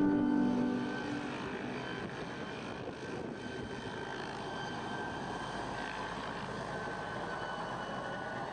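A steady aircraft engine drone with a rushing hiss, after held music notes fade out in the first second.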